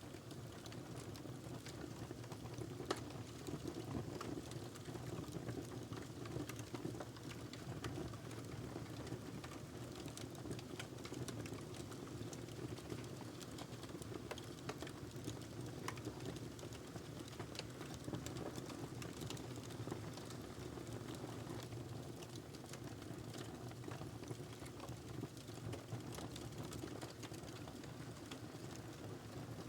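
Wood fire burning in a fireplace: a steady low rush of flames with frequent small crackles and pops, one sharper pop about three seconds in.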